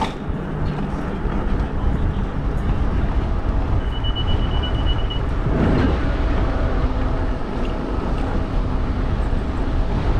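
Steady rumbling road and traffic noise heard from a fat-tire e-bike riding along a busy street. A brief high tone sounds about four seconds in.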